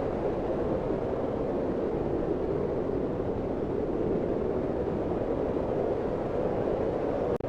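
Steady rushing wind, an even low hiss without any whistle or tone, that cuts out for an instant near the end.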